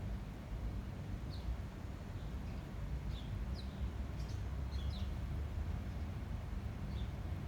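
Wind buffeting the microphone as a steady low rumble, with small birds giving short, high chirps that drop in pitch, scattered through and bunched together in the middle.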